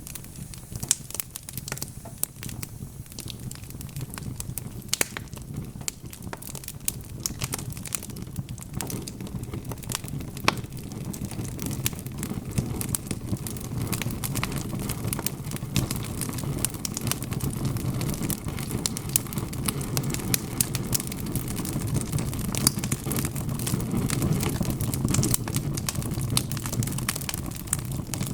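Wood fire crackling, with frequent irregular pops and snaps over a low rumble of flames. The rumble grows louder about a third of the way in.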